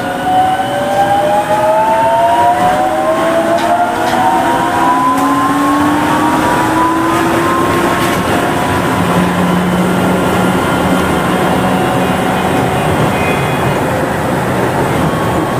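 Interior running sound of a Kanazawa Seaside Line 2000-series rubber-tyred automated train. The motor whine rises in pitch over the first eight seconds or so as the train picks up speed, then gives way to a steady low hum over the rumble of the running gear.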